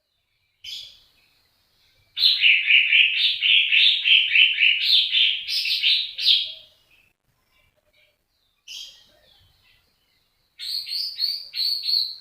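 A songbird singing: a short call about a second in, then a run of rapid repeated chirping notes, about four a second, lasting some four seconds. Another short call and a second run of quick notes follow near the end.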